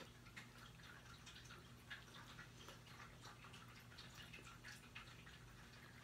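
Faint chewing of a fried chicken sandwich: many small, irregular wet mouth clicks, over a low steady hum.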